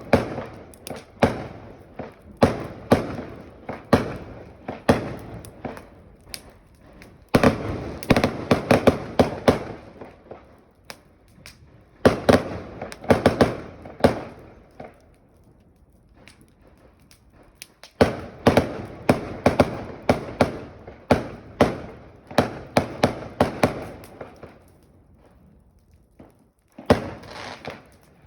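Fireworks crackling and popping: rapid sharp bangs in dense bursts that start abruptly every few seconds, with scattered single pops and short lulls between them.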